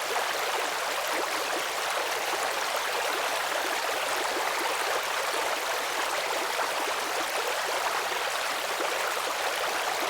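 Steady rush of flowing water from a stream or small waterfall, an even hiss with no breaks.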